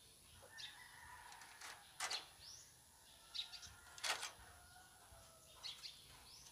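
Faint, scattered bird chirps, with two louder sharp clicks about two and four seconds in.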